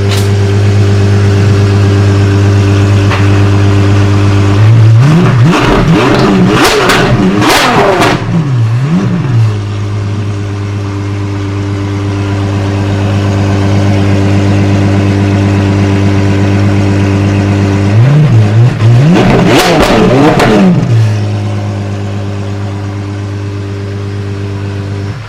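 Apollo Intensa Emozione's 6.3-litre naturally aspirated V12 idling steadily and loudly. About five seconds in it is given a burst of quick revs, and again around eighteen seconds in, dropping back to idle each time.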